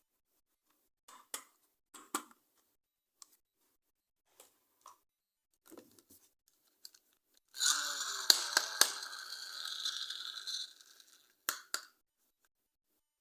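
Toy packaging being handled: scattered light clicks and taps, then about three seconds of packaging tearing from about halfway through, followed by two sharp clicks.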